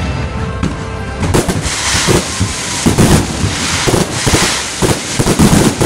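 Fireworks finale: about a second in, a dense, rapid volley of firework bangs and crackling takes over, with the loudest reports bunched toward the middle and end.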